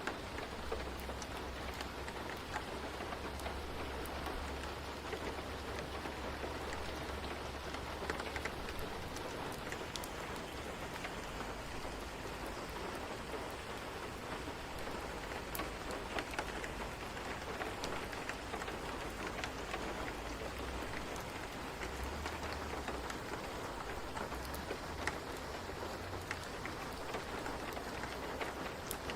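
Steady rain falling, an even hiss with many small scattered ticks of drops and a low rumble underneath.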